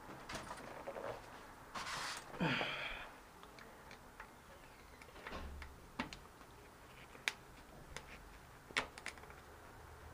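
Hand tools working on a spin bike's metal parts: a scrape and a short falling squeak about two seconds in, then scattered small sharp clicks. The parts are being worked loose without circlip pliers.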